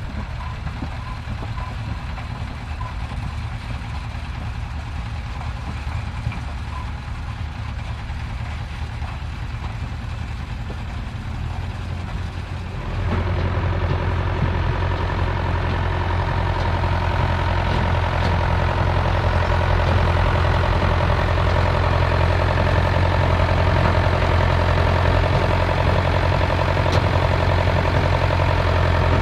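Tractor engine running steadily in a field. About thirteen seconds in it suddenly grows louder and fuller, then keeps building slightly.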